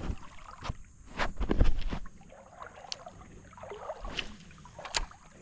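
Irregular knocks and thumps on a jon boat. The loudest is a cluster of low thumps between one and two seconds in, with further sharp knocks toward the end.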